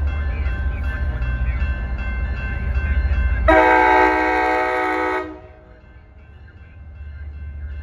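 A train's low steady rumble, then about halfway through a single locomotive air horn blast lasting a little under two seconds, a chord of several notes. The rumble drops away as the horn sounds and comes back faintly near the end.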